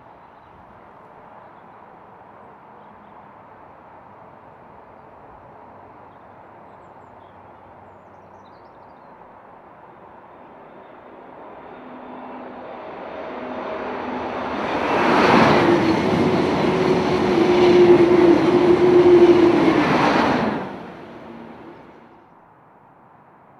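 A Class 373 Eurostar high-speed electric train passing. It builds gradually from about halfway through, then gives a loud rush for about five seconds with a steady tone beneath it, drops off sharply and fades away.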